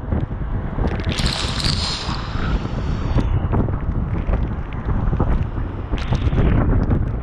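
Strong tropical-storm wind buffets the microphone with a deep, steady rumble. A hissing rush rises about a second in and again about six seconds in.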